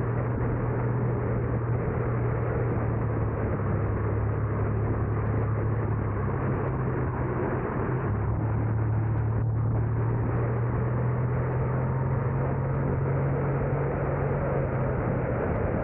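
Car driving: a steady low engine drone over road and tyre noise, the drone shifting slightly in pitch twice around the middle.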